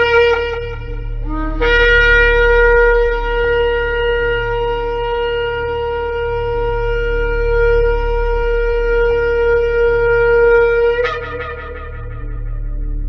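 Shofar blown in one long held blast of about nine seconds. A short lower note steps up into it, and it ends with an upward break. A brief blast ends just after the start, a quieter lower tone follows near the end, and a steady low hum runs underneath.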